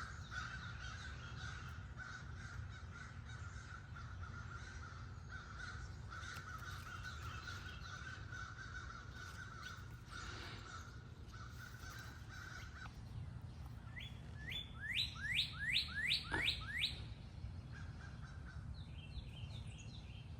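Outdoor birdsong: crows cawing, then a songbird sings a quick run of about seven rising whistled notes, the loudest sound here, followed by a few short chirps near the end. A low, steady rumble runs underneath.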